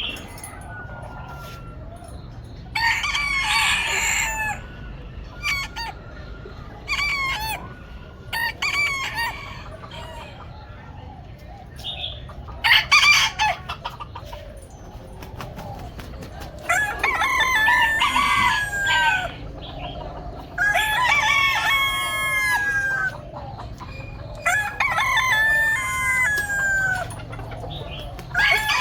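Roosters crowing about half a dozen times, long calls that fall in pitch at the end, with shorter clucking calls between the crows.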